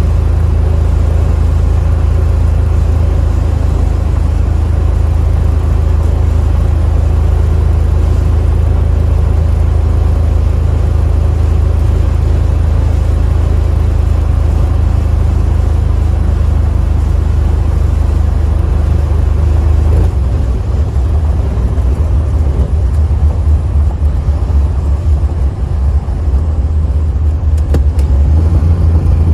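1968 Chevy Impala running with a loud, steady low drone that becomes more uneven about twenty seconds in.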